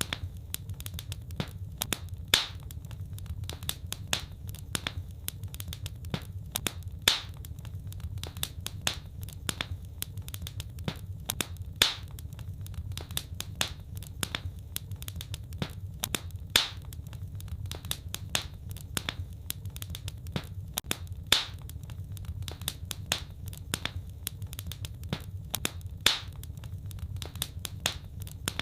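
Wood fire crackling: many small sharp crackles, with a louder pop about every five seconds, over a steady low rumble.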